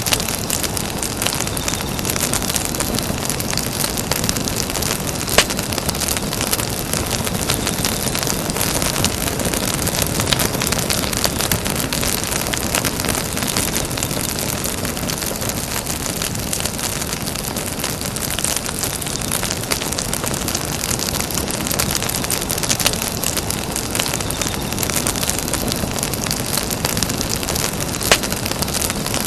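Campfire burning with a steady, dense crackle and hiss, broken by a few louder sharp pops, one about five seconds in and one near the end.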